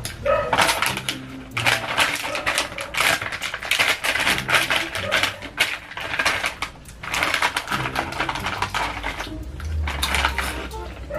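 Close-up crunching of snack chips being chewed, a dense, continuous crackle in quick irregular bursts.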